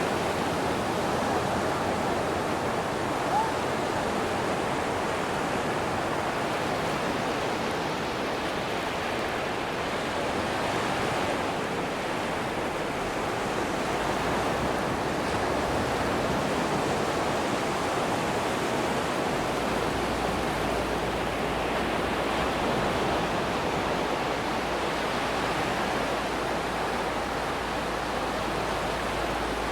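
Atlantic ocean surf washing steadily onto a sandy beach, a continuous hiss of breaking waves with gentle swells in level. There is one brief short blip about three seconds in.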